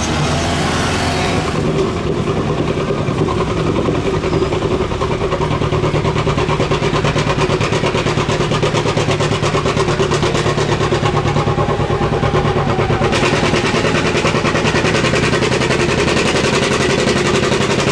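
A truck or tractor puller's engine runs loud and steady, a fast even rumble of firing pulses. It grows brighter and harsher about two-thirds of the way through.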